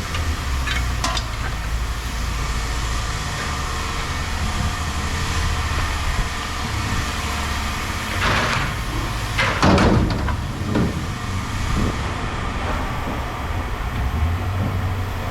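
A steady low engine rumble with scrap metal clanking and banging over it, loudest twice, about eight and ten seconds in.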